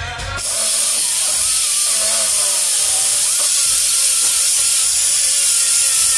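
A cut-off wheel grinding through car body sheet metal: a loud, steady, hissing grind that starts about half a second in.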